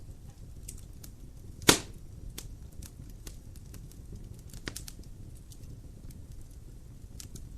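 Wood fire crackling in a fireplace: scattered small snaps over a low steady rumble, with one loud sharp pop about a second and a half in and a smaller one near the middle.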